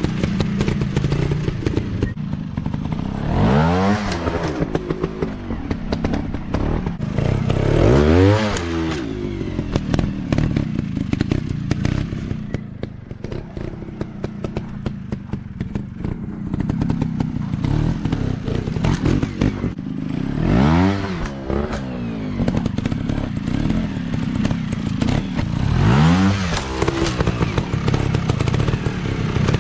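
Off-road dirt bike engines running, with four short rev bursts that rise and fall in pitch. Constant clatter and knocks sound between the revs.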